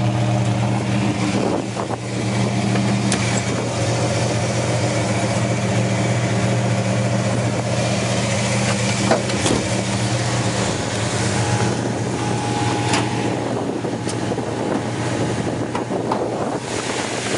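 Rebuilt 440 cubic-inch Magnum V8 of a 1968 Dodge Coronet idling steadily, with a few light clicks over it.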